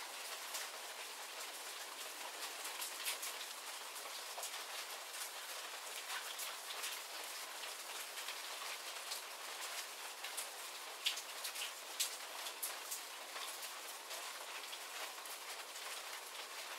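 Steady rain shower: an even hiss of falling rain with close drops ticking sharply and irregularly on surfaces.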